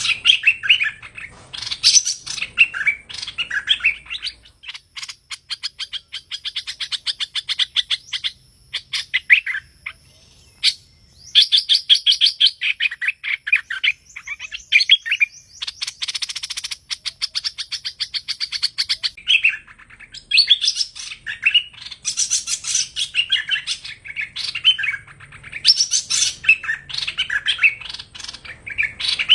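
Hoành hoạch songbird singing: short, repeated chirping phrases. From about five seconds in there are long, rapid runs of quick, evenly spaced notes, and the chirped phrases return near the end.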